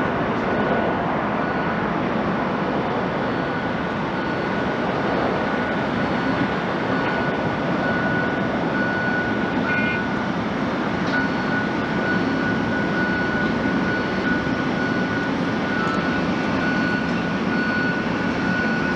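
Jet engines of an Airbus A350-900 running: a steady rush of engine noise with a steady high whine through it.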